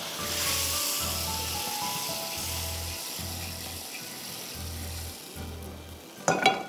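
Prawns and spaghetti in tomato-cream sauce sizzling in a pan over high heat, the sizzle fading about five seconds in. Background music with a steady bass pulse plays throughout, and a sharp knock near the end is the loudest sound.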